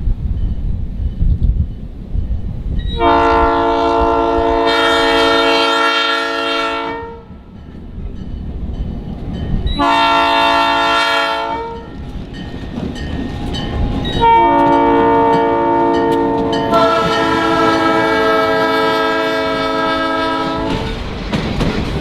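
Diesel locomotive's air horn sounding a chord in a grade-crossing pattern: a long blast, a short one, then a final long blast held several seconds, over the engine rumble and wheels clicking over rail joints.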